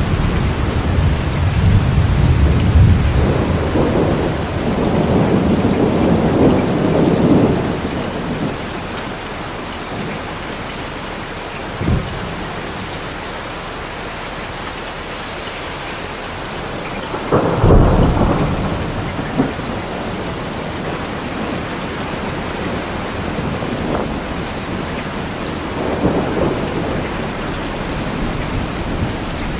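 Steady rain with thunder: long low rumbles rolling through the first several seconds, a short crack a little before midway, the loudest clap, sudden and sharp, a little past midway, and a softer rumble near the end.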